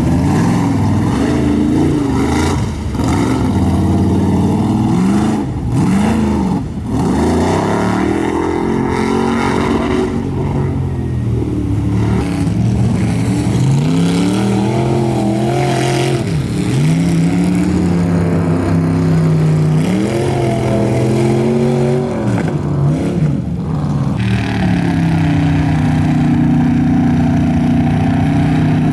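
Mud truck engine revving hard, the pitch climbing, holding and dropping again and again as the throttle is worked.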